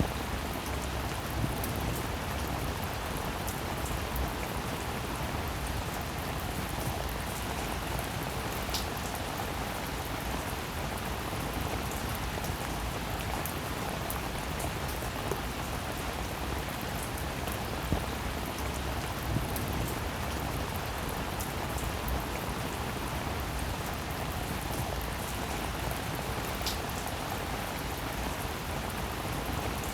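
Steady rain falling, with many small drop clicks scattered through it.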